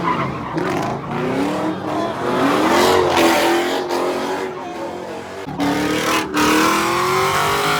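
A car drifting at high revs: the engine's pitch climbs steadily under a haze of tyre squeal, dropping briefly a couple of times before climbing again.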